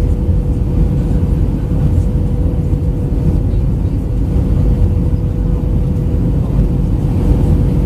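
Steady cabin noise of an Airbus A319-112 in descent: a low rumble of airflow and its CFM56 engines, with one steady hum running through it.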